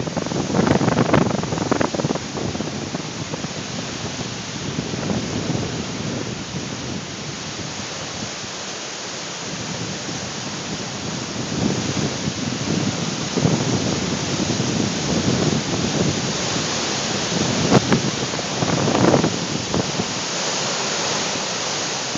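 Strong dust-storm wind rushing and buffeting the microphone: a steady dense hiss with heavier gusts about a second in and again late, around the last few seconds.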